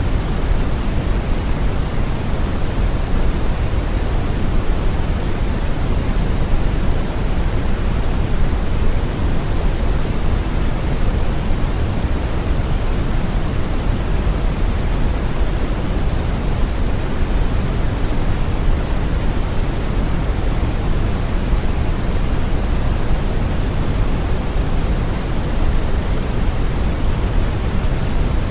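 Steady brown noise: a continuous, even rumbling hiss, heaviest in the low end and falling off toward the highs, with no changes or events.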